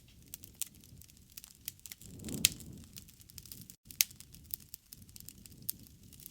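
Wood campfire crackling, with frequent sharp pops over a low rush of flame that swells briefly about two and a half seconds in. The loudest pops come about two and a half and four seconds in.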